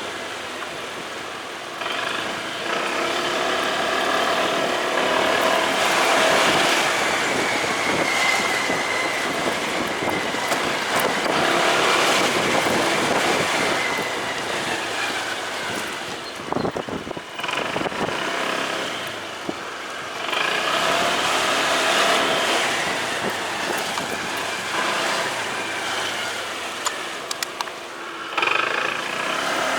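Motorcycle engine running while riding, its pitch rising and falling as it speeds up and eases off, with a brief drop in the middle before it pulls away again.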